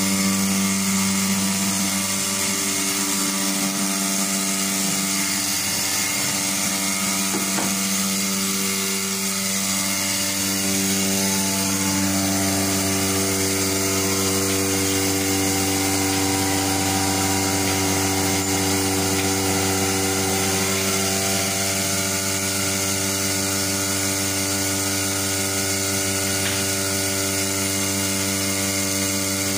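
A motor running steadily, giving a constant hum of fixed pitch with no breaks.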